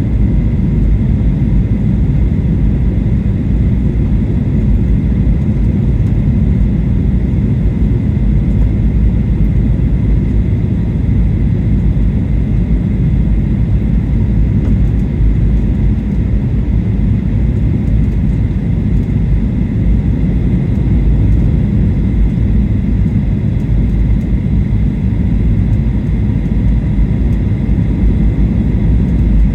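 Boeing 737-800 cabin noise on descent: a steady low rumble of engines and airflow heard inside the cabin, with a faint steady high whine above it.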